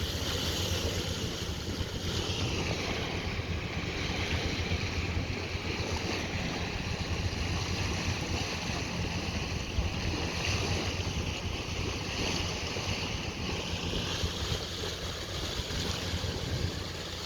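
Wind buffeting the microphone over the steady rush of sea water past a sailing yacht's hull as it moves under way.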